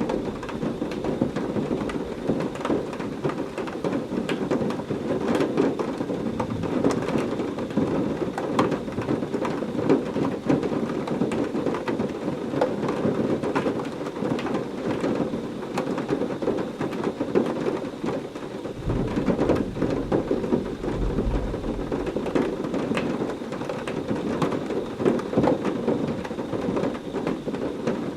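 Heavy rain falling steadily in a thunderstorm, with a low roll of thunder rumbling for a few seconds about two-thirds of the way through.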